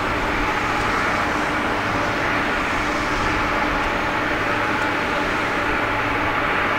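Jet airliner engines on a landing, a steady rushing noise with faint steady whine tones running through it.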